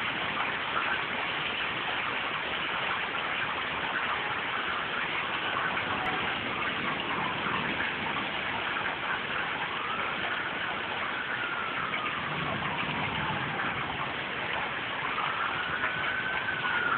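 Heavy rain falling steadily in a thunderstorm. From about ten seconds in, a distant emergency siren wails, its pitch slowly rising and falling twice.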